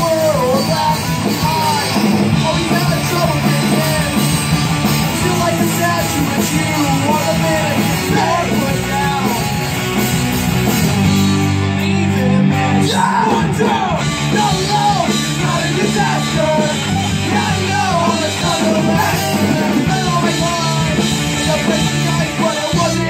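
Rock band playing live, with a singer's wavering vocal line over sustained guitar and drums.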